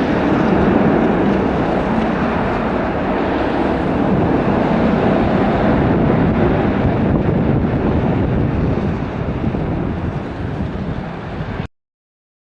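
Steady noise of an Airbus A320 airliner's jet engines, mixed with wind on the microphone. It cuts off suddenly near the end.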